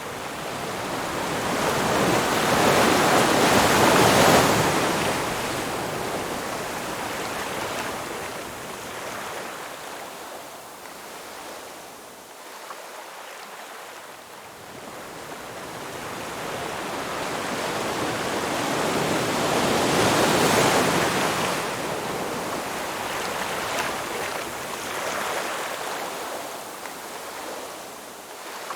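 Ocean surf: waves breaking and washing up the shore. The rush swells loudest about four seconds in and again around twenty seconds, with a quieter lull between.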